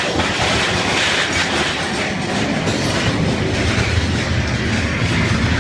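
Big Thunder Mountain Railroad mine-train roller coaster running along its track: a steady, loud noise of wheels on rail that carries on without a break.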